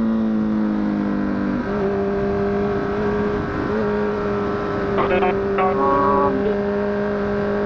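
Honda CBR1000RR (SC57) inline-four engine running under way with wind rush, its note easing down and then shifting in pitch about a second and a half in and again around four seconds, as on gear changes.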